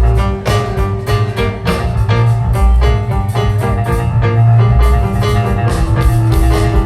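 Live rock band playing: electric guitar, keyboards, bass and drum kit, with the bass and kick drum coming in strongly at the start.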